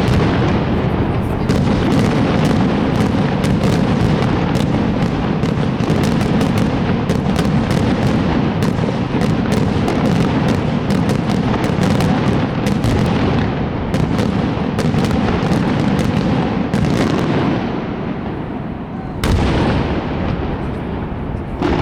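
Fireworks display in full barrage: rapid crackling bangs over a continuous rumble of bursting shells, easing briefly before one loud bang near the end.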